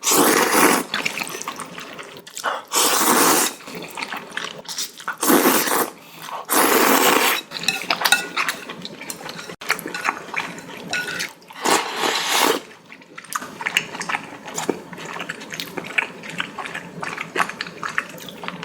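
A person slurping noodles with broth in about five loud slurps, each under a second, with quieter chewing and small wet sounds between them.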